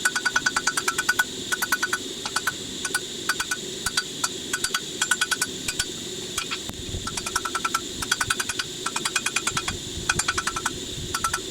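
Rapid hammer blows on steel in quick runs of several strikes, each with a short metallic ring, over a steady hum.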